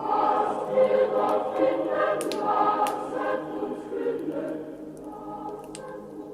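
A choir singing a Christmas song, a new phrase of sustained chords swelling in at the start and softening later. Sharp pops and crackles of a wood fire sound over it every second or so.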